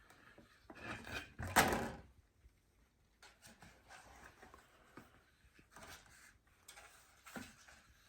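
Handling noises as a ball python is lifted and moved for weighing: a loud rustling scrape with knocks about a second and a half in, then faint scattered clicks and rustles.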